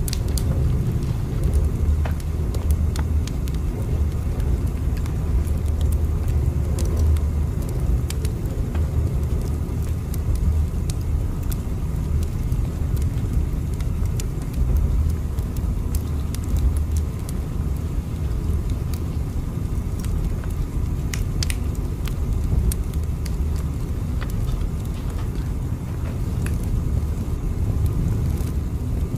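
Steady low rumble of a train running, with scattered faint clicks and crackles over it.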